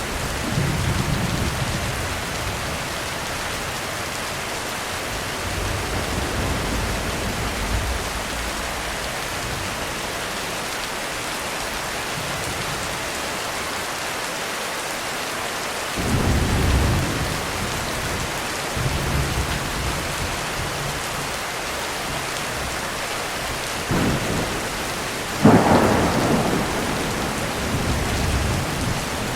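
Heavy rain falling steadily through a thunderstorm, with several low rolls of thunder and a sharper, louder thunderclap near the end.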